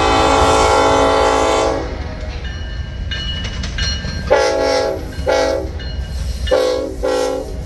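Locomotive horn sounding a chord over the low rumble of a passing train: a long blast ends about two seconds in, then four short blasts follow in two quick pairs.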